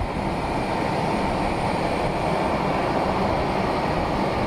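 Jet aircraft engines running at the airport: a steady, even rumble with no change in pitch.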